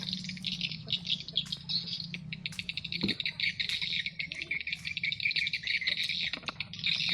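Many small birds chirping rapidly and continuously, over a steady low hum.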